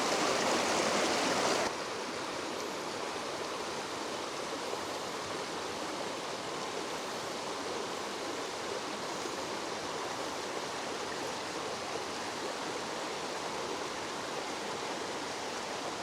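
Fast-flowing river rushing steadily; the rush drops suddenly to a quieter level a little under two seconds in.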